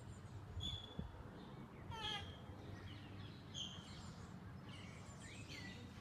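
Faint bird chirps and short calls, several scattered notes, over a low steady rumble of background noise.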